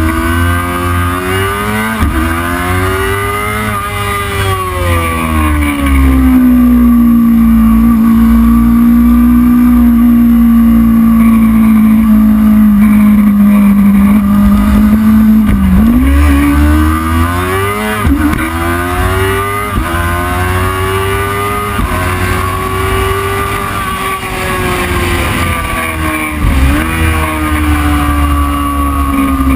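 Racing motorcycle engine running hard, its pitch climbing and falling with the throttle, held steady and loud for several seconds in the middle, with several sharp dips where it changes gear before climbing again.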